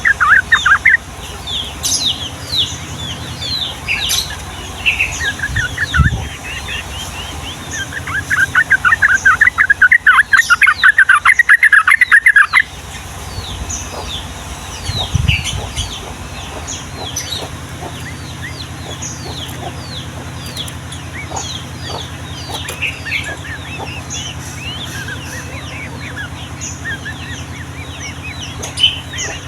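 Yellow-vented bulbuls (trucukan) chattering in many short, falling chirps. About eight seconds in comes a loud, rapid rolling run of notes lasting about four seconds, the long 'ropel' trill prized in this bird.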